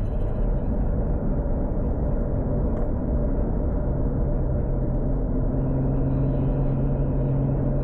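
Tuned Toyota Supra MK4's 2JZ straight-six running steadily at low revs, a low even drone whose deepest tone grows stronger about halfway through.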